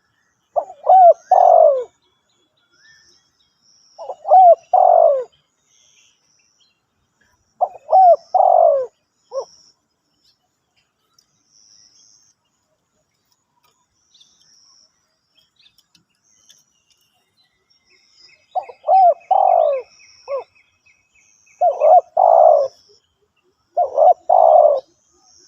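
Spotted dove cooing: short phrases of two or three notes repeated every few seconds, with a pause of about eight seconds in the middle. Faint high chirps of small birds sound behind it.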